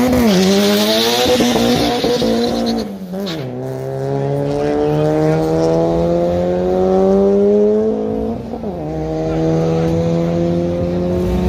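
Drag car launching hard, with a brief tyre squeal at the start. Its engine revs climb, drop at an upshift about three seconds in, climb again, and drop at a second upshift near eight seconds.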